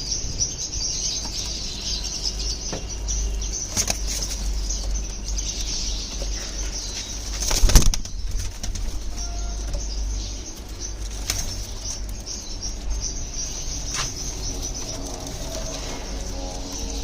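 Pigeons flapping their wings, with a loud burst about eight seconds in and faint cooing later on.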